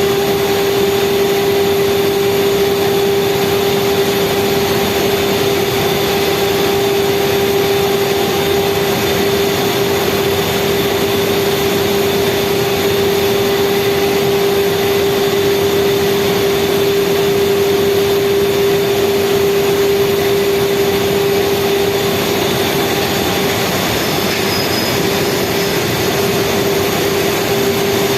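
Speedboat's outboard engine running steadily at speed: a constant, unchanging drone with a held tone over a broad rushing noise.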